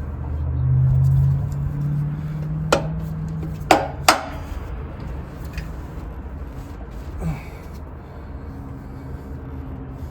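Three sharp taps on the stuck upper intake plenum of a Mustang 3.8 V6, struck to break it loose from its gasket, the last two close together. A low steady hum runs through the first few seconds and fades out as the taps come.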